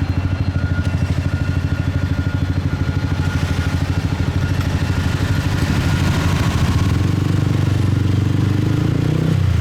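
Small motorcycle engine running under way with road and wind noise, pulsing rapidly; its pitch and loudness rise a little about seven seconds in as it speeds up.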